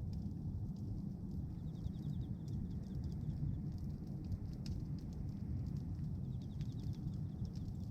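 Bonfire of pruned tree branches burning: a steady low rush of flame with scattered sharp crackles and pops.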